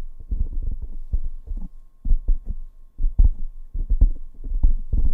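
Fingertips tapping directly on a microphone: a quick, uneven run of dull low thumps, several a second.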